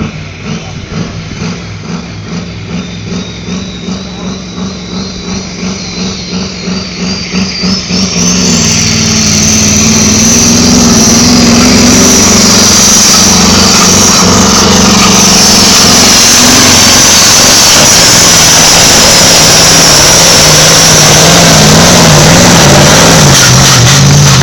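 Modified pulling tractor's engine, loping with a pulsing beat about twice a second while a high whine rises. About eight seconds in, it goes to full power and stays at a loud, steady roar through the pull.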